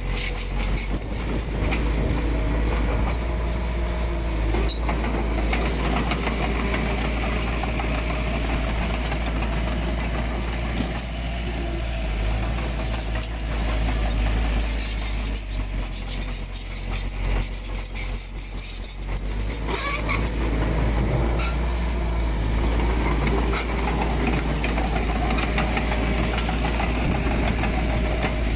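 Heavy diesel earthmoving machinery running steadily, its engine easing off for a few seconds about midway and then working harder again. High metallic squeaks and clicks come in patches over the rumble.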